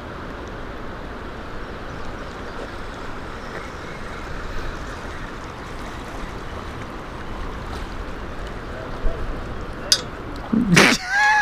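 Steady rush of river water below a dam. Near the end comes a sudden loud sound, then a few arching bird calls.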